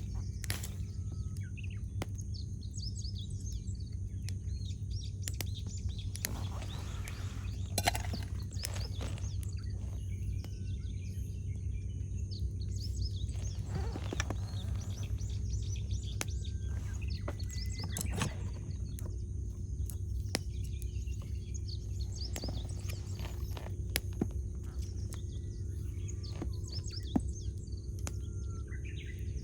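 Wood campfire crackling, with scattered sharp pops, while small birds chirp and call throughout. A steady low rumble runs underneath.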